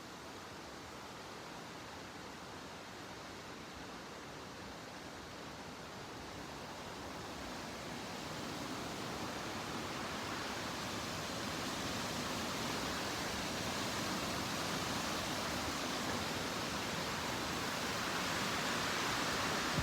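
Wind blowing: a steady, even hiss that grows gradually louder.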